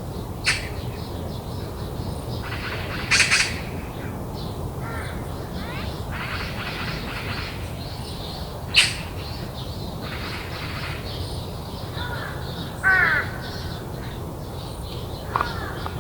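Corvids calling: about five short, loud, harsh calls spread unevenly across the stretch, with fainter calls of other birds between them. A steady low background hum runs underneath.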